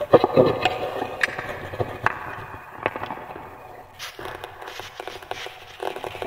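Wood fire burning, crackling steadily, with several sharper pops scattered through.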